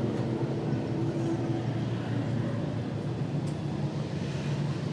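An engine or motor running steadily with a constant low hum.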